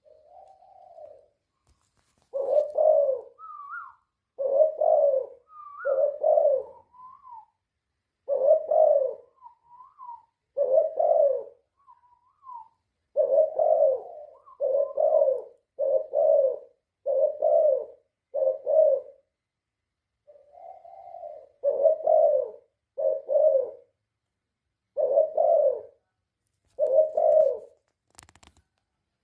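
Spotted dove (tekukur) cooing: a long run of short, low coo notes in uneven groups, with a few brief higher notes in between. A single sharp click near the end.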